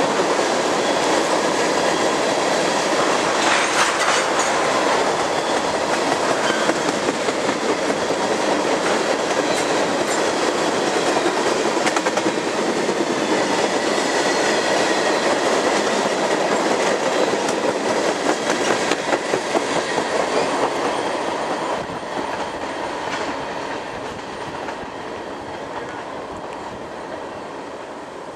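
A CSX freight train of tank cars rolling past, its steel wheels running on the rails in a steady, loud rumble. The rumble fades over the last several seconds as the end of the train goes by.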